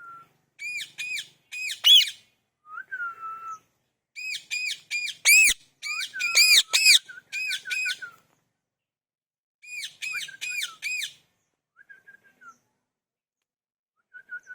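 A parrot calling: three runs of short, fast-repeated shrill notes with pauses between them, plus a few softer single whistles in the gaps.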